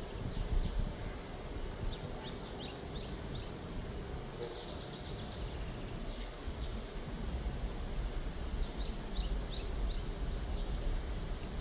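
Birds chirping in two short runs of quick high calls, over a steady background hiss with a low rumble.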